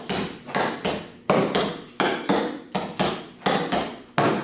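Clogging taps on shoes striking a hard floor in a quick, even run of about a dozen sharp strikes, roughly three a second, as a step sequence is danced.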